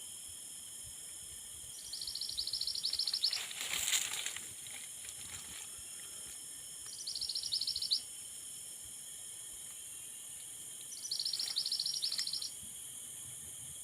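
A bird's high, rapid pulsed trill, given three times about four to five seconds apart, each burst lasting a second or so, with a faint steady high tone between bursts over a constant high hiss. A brief noisy rush comes about four seconds in.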